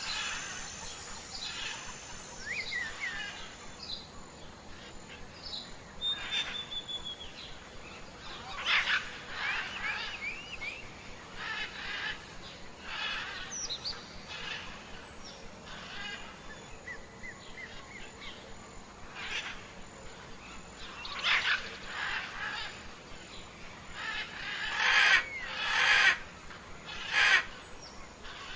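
Several birds chirping and calling, with short whistled notes, quick trills and rising and falling glides, and a few louder, rougher calls near the end.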